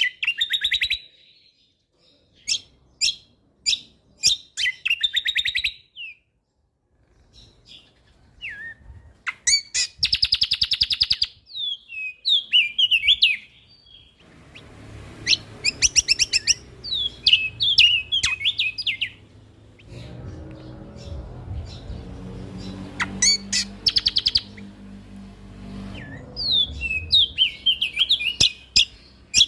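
Songbird, the kecial kombok (cucak kombo), singing in sharp high chirps, fast rattling trills and quick warbled phrases with short pauses between bursts. A low rumbling background noise runs under the song through the second half.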